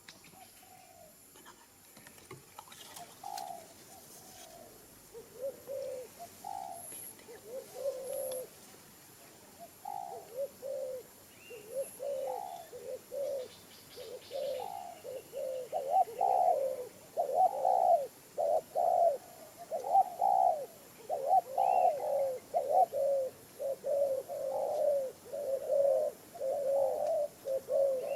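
Dove cooing: short, low, repeated coos, faint and spaced out at first, then louder and coming in quick succession from about halfway through.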